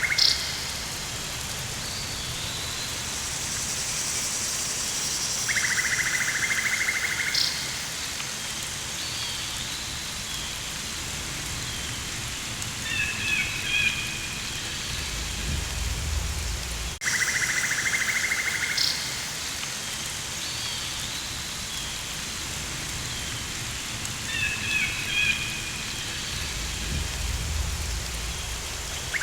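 Rainforest ambience: a steady rain-like hiss with a rasping buzz about a second and a half long that comes back now and then, short high chirps, and a low rumble. The same stretch of sound loops and repeats about halfway through.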